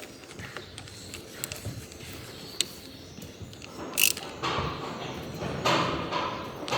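Hand tools working on a Honda Wave 110 motorcycle engine: scattered metallic clicks and clinks, a sharper knock about four seconds in, then a stretch of rasping mechanical noise.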